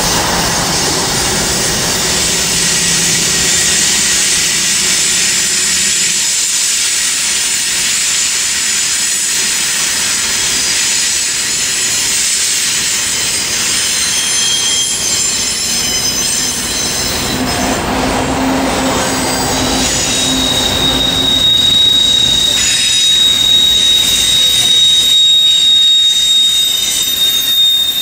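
Norfolk Southern diesel locomotives passing at the head of a double-stack intermodal train, their engines heard for the first few seconds, then the steady rolling noise of the container cars' wheels on the rails. A steady high wheel squeal sets in during the second half, and the train grows a little louder near the end.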